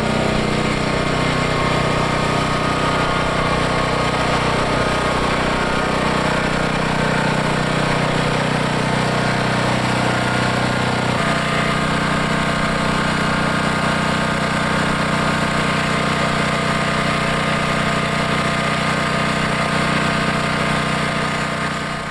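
Power sander running steadily against a boat hull, grinding off old bottom paint, with a sudden small shift in its tone about halfway through.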